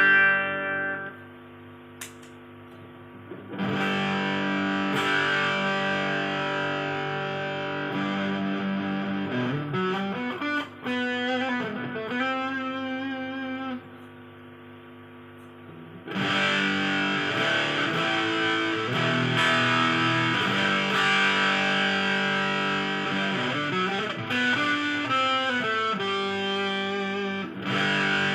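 Electric guitar played through an MXR Sub Machine fuzz pedal, giving a thick distorted tone. A ringing chord opens it, then come two passages of chords and riffs, each starting after a pause of about two seconds.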